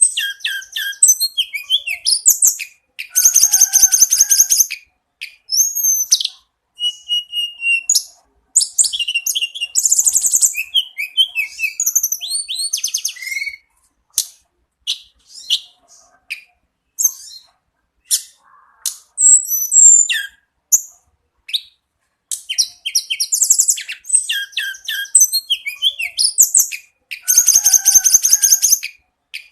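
Tledekan gunung (lesser shortwing) singing a loud, high-pitched song of fast, dense trills mixed with sharp whistled notes and chips, with a sparser stretch of short notes about halfway through.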